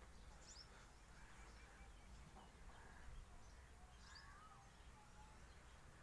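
Near silence: faint outdoor farmyard ambience with a low rumble and a few short bird chirps, the clearest about four seconds in.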